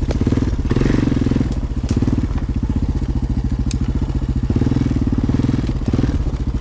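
Four-wheeler (ATV) engine running steadily at low speed, with a few sharp cracks and snaps of brush and sticks against the machine.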